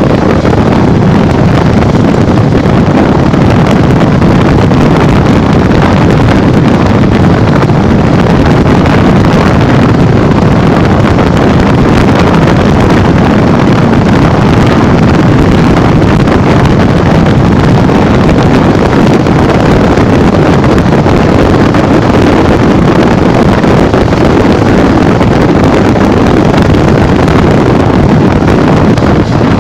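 Loud, steady wind noise on the microphone of a rider going at speed on a Honda Bros 150 motorcycle.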